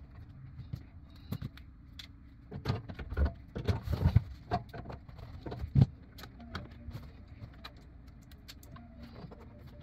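Irregular metal clicks, rattles and knocks as sheet-metal parts of a gas water heater's burner-access cover and intake grate are handled and fitted back into place, with a few louder thumps in the middle.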